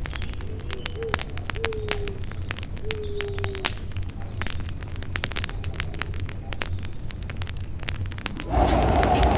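Wood campfire crackling: frequent sharp pops and snaps over a low rumble of the flames. Near the end, a loud, noisy rush lasting about a second drowns it out.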